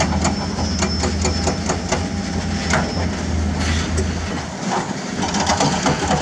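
Heavy diesel construction machinery running, with frequent metallic clanks and knocks over a steady low engine hum. The low hum dips for about a second, around four and a half seconds in.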